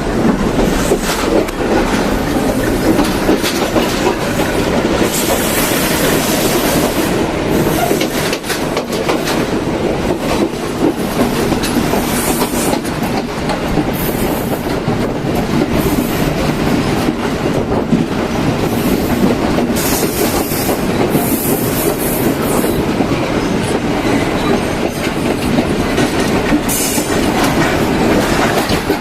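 Passenger train running along the line, its wheels clattering steadily over the rail joints, with patches of higher hiss coming and going.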